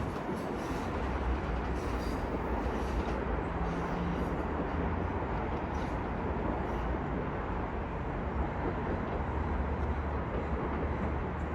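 Metro-North commuter train rolling through the station, a steady rush of wheels on rail with a low rumble underneath.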